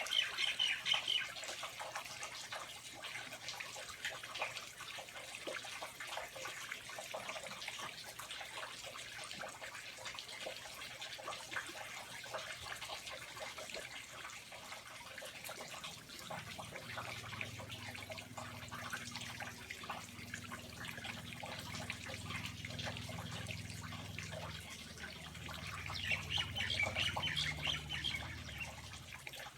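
Rainforest ambience: water steadily trickling and dripping, with birds chirping briefly at the start and again near the end. A low steady hum joins about halfway through.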